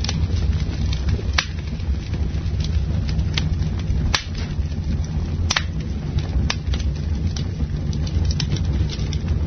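Campfire burning with a steady low rumble of flame, and wood crackling in sharp irregular pops about once a second.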